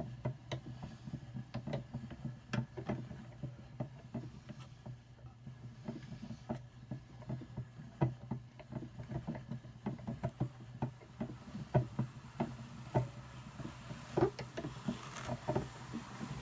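Hand-cranked Brother drum carder turning, its drums giving a low steady hum under a quick, irregular stream of small clicks and ticks as the fine carding cloth works through wool.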